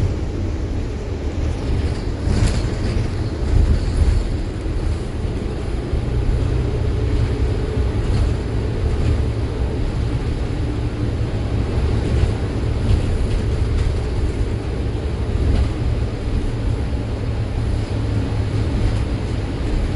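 City bus in motion, heard inside the cabin: a steady low engine and road rumble with a few light rattles.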